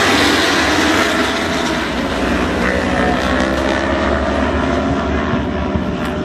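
Pack of racing superbikes running at high revs: a dense, steady wash of engine noise with shifting pitch, cut off abruptly near the end.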